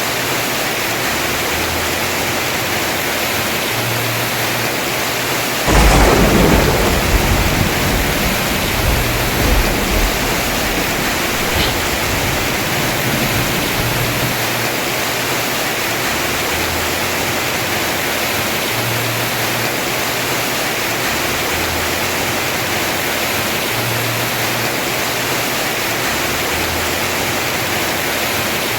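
Heavy rain falling steadily on a house roof, an even rushing hiss. About six seconds in a thunderclap breaks sharply and rumbles away over several seconds.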